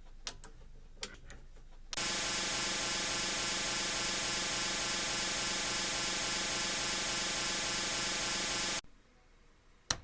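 A few small sharp clicks, then a steady electric machine hum, even and unchanging for about seven seconds, that cuts off suddenly.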